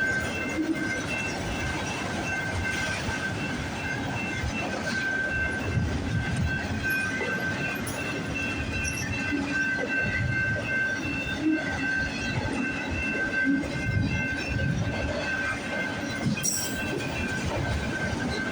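Freight train cars rolling past, their wheels rumbling on the rails with a steady high-pitched wheel squeal running over the rumble.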